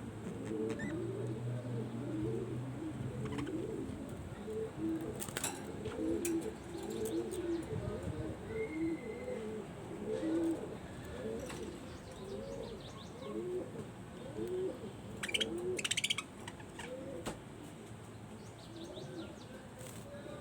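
Pigeons cooing, with several low, repeated calls overlapping. A few sharp clicks break in, the loudest cluster about three quarters of the way through.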